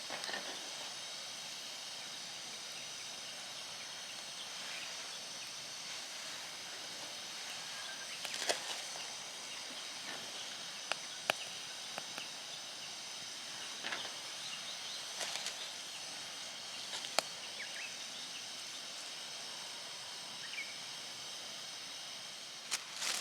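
Steady outdoor background hiss with scattered faint clicks and taps.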